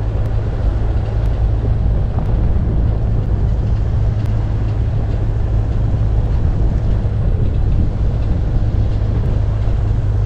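Steady low rumble of a Mitsubishi 4x4 van driving along a road: engine and tyre noise with some wind on the microphone.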